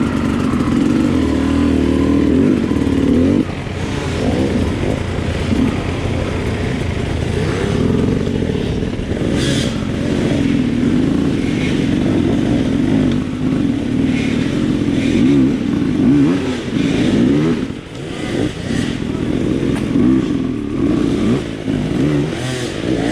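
Enduro dirt bike engine heard from on board, its pitch rising and falling again and again as the throttle is worked over trail terrain. Occasional clatter and sharp knocks from the bike.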